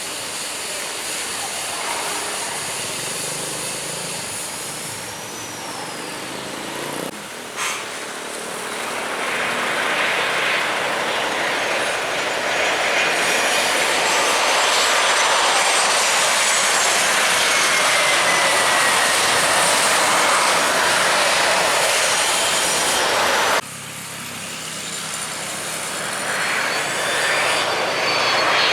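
Jet airliner engines passing close: a loud, steady rush of noise with thin high whining tones. It swells through the middle, cuts off abruptly near the end, then builds again as another aircraft approaches.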